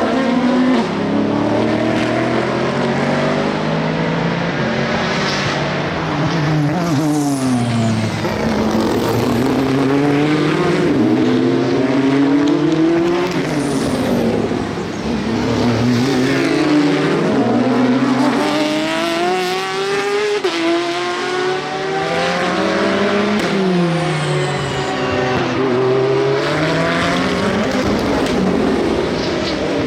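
Several endurance race cars passing one after another, often more than one at once. Their engines fall in pitch as they brake and downshift for the corner, then rise again as they accelerate away.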